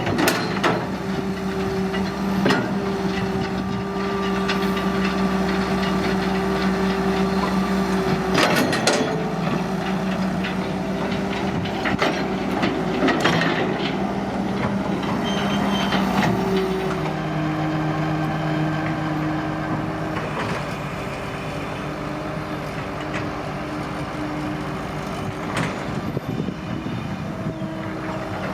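Excavator's diesel engine running steadily under work, its note dropping lower about two-thirds of the way through, with occasional clanks and knocks of metal.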